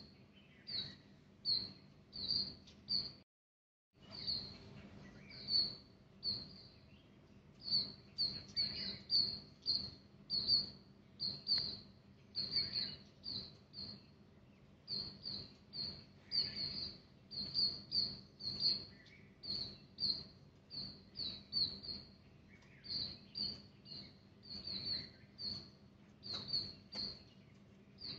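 A small bird chirping over and over, short high chirps of nearly the same pitch about two a second, with a brief dropout just after three seconds in.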